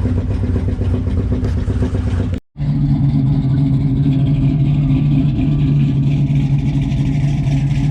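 Car engine running steadily. It cuts out abruptly for a moment about two and a half seconds in, then comes back as a steady engine hum with a different tone.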